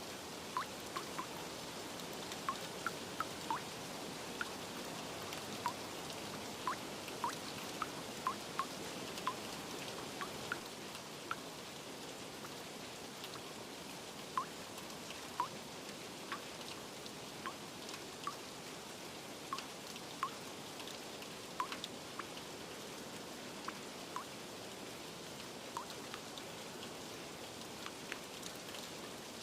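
Steady rain, with many separate drops plinking on a surface over the hiss, more often in the first half.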